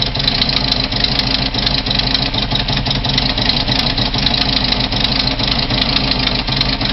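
Volvo 240 engine running steadily at idle, with a rapid, unbroken ticking or knocking over its note: the strange noise the car is making.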